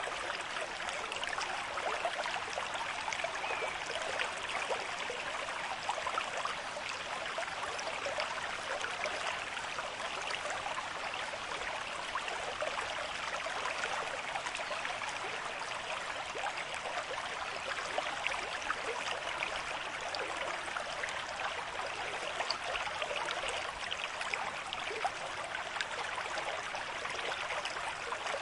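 River stream in moderate flow: a steady rush of water with a fine babbling texture, even throughout.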